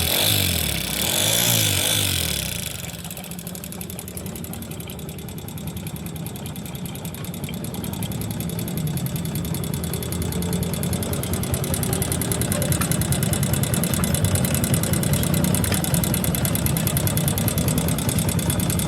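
An engine revved up and down a few times, then settling about two and a half seconds in to a steady idle that grows slowly louder toward the end.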